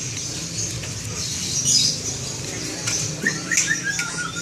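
Small birds chirping: a few short, high chirps and brief calls, busiest in the second half, over a steady low hum.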